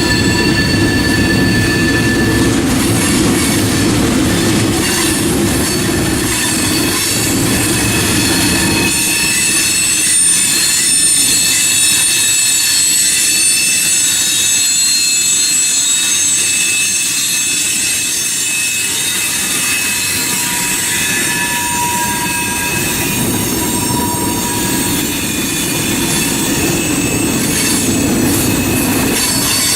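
Freight cars rolling through a curve, their wheels squealing in several high steady tones over the rumble of wheels on rail. The rumble thins out for a stretch in the middle.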